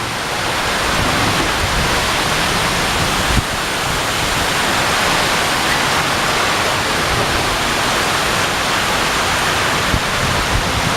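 Heavy rain pouring down in a steady, dense hiss, swelling over the first second and then holding even.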